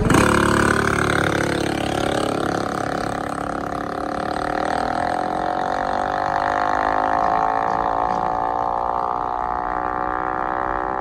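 A vehicle engine running steadily. Its pitch slides down over the first couple of seconds, then holds fairly level with small rises and falls.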